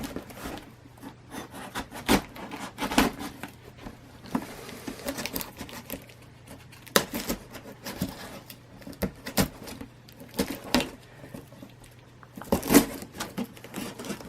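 A shipped package being opened by hand: irregular taps, scrapes and crinkles of cardboard and packing material, including a blade working through the tape.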